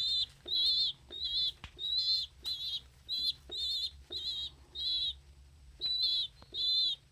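A young pigeon giving its squeaker's high, wavering whistling peep over and over, just under two calls a second, with faint clicks between them.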